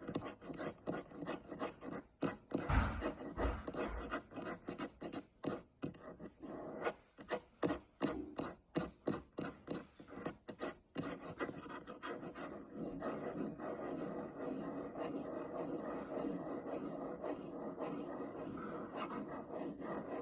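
Fingernails scratching and rubbing: a run of quick, separate scratchy strokes, then a steadier, continuous rubbing from about twelve seconds in.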